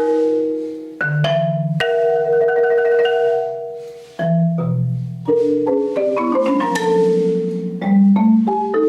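Solo marimba played with mallets: quick runs of struck notes alternate with low notes held by rolling.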